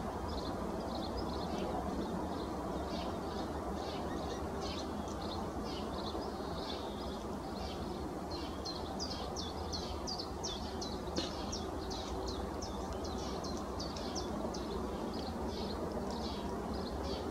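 Birds chirping continuously: many short, high chirps, several a second, over a steady low background rumble.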